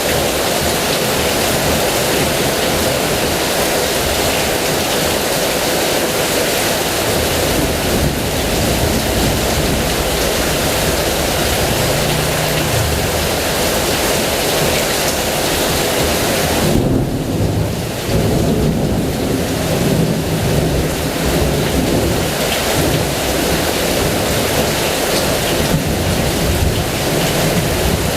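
Heavy rain falling steadily, with thunder rumbling low beneath it. There is one rumble about halfway through and a longer one from a little past the middle, when the hiss of the rain briefly dulls.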